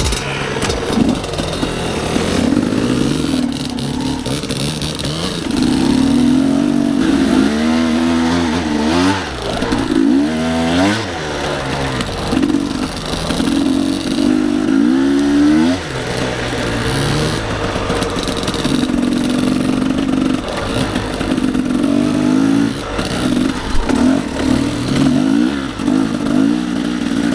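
Dirt bike engine running hard on a trail climb, the revs rising and falling again and again with the throttle.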